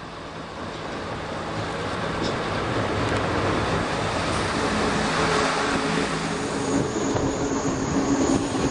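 A train approaching, its engine hum and rail noise growing steadily louder, with a thin high squeal from the wheels setting in near the end.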